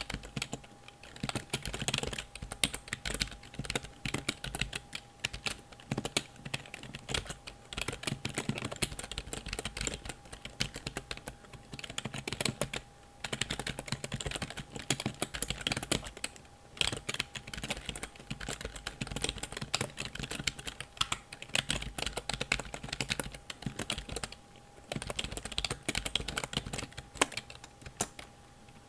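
Computer keyboard being typed on: a fast, irregular stream of key clicks, broken by a few short pauses.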